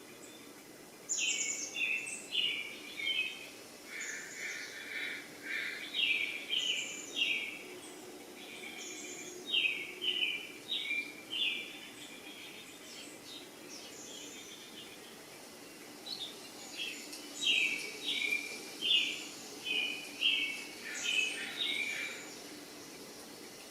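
Bird chirping: runs of short, quickly repeated high notes in several bouts, with a pause in the middle, over a faint steady hum.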